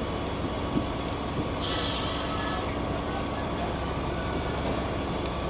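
Heavy machinery engine running steadily in a low, even rumble, with a brief hiss about two seconds in.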